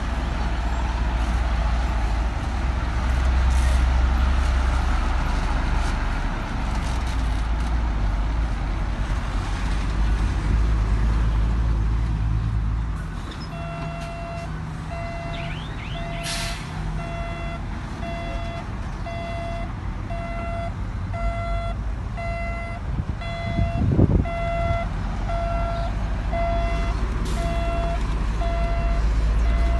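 A heavy diesel engine of earthmoving machinery runs with a loud low rumble. About halfway through, a reversing alarm starts beeping steadily about once a second as a machine backs up, over the engine.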